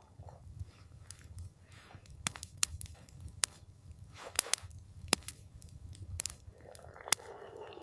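Wood campfire crackling: irregular sharp pops and snaps over a low steady rumble, with a soft rush swelling near the end.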